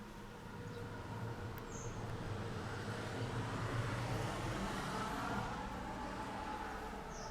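Isuzu Elf truck's 3-litre turbo diesel idling with a steady low hum, while a rushing noise swells to a peak about four seconds in and fades again.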